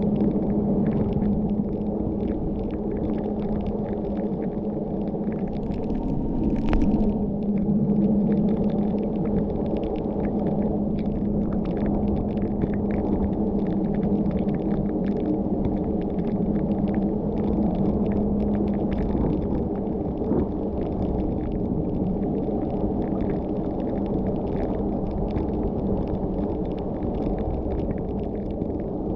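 Car on a wet road, its engine and tyres droning steadily with a pitched hum, and many light ticks of rain. A brief sharper knock comes about seven seconds in.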